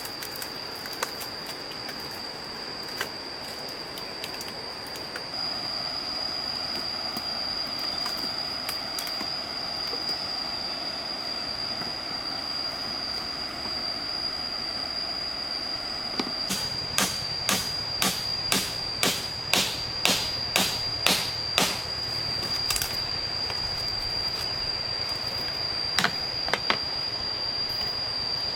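A steady, high-pitched insect drone over a stream's rushing. About sixteen seconds in comes a run of about a dozen sharp knocks, roughly two a second, as wood is struck, and two more knocks come near the end.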